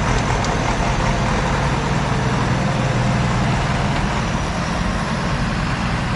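Heavy tractor diesel engine running steadily, with a constant low hum.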